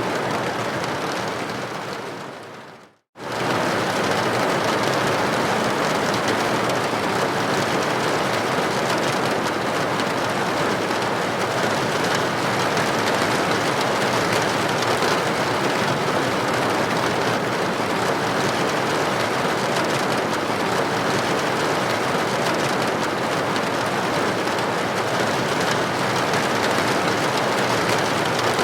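Steady rain on a building window, an even hiss of droplets. The sound fades out to a brief silence just before three seconds in, then comes back abruptly at full level.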